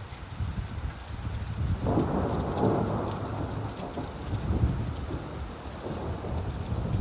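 Steady rain with a roll of thunder that swells about two seconds in and rumbles on for several seconds before easing.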